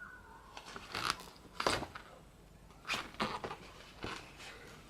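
Pages of a glossy album photo booklet being turned and handled: a few short paper rustles and crinkles, around a second in, again just before two seconds and twice near three seconds.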